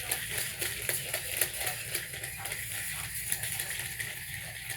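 A long tape measure's reel mechanism clicking rapidly and continuously as its blade runs.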